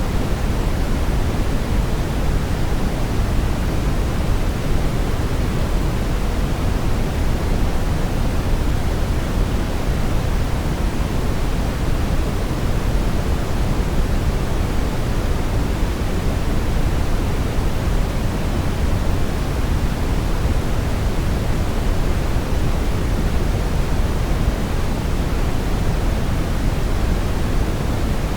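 Steady brown noise: an even, unchanging rushing hiss weighted heavily toward the low end, with no tones or events.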